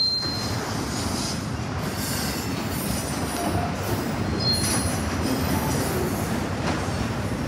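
Autorack freight cars rolling past on steel rails: a steady rumble and clatter of wheels on track. A brief high-pitched wheel squeal comes right at the start and another about halfway through.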